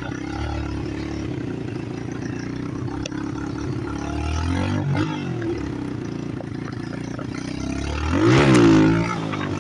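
Chinese pit bike engine running, revved up and back down about halfway through, then revved harder near the end, its pitch rising and falling.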